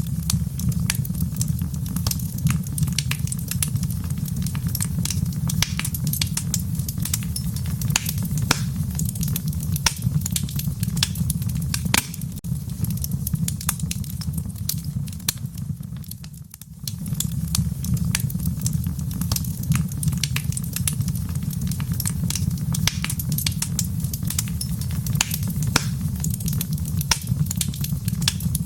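Wood fire crackling in a fireplace: many sharp pops and snaps over a low rumble of the flames. The rumble drops away briefly about sixteen seconds in, then returns.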